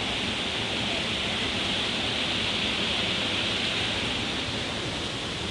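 Waterfall rushing: the steady, even noise of falling water.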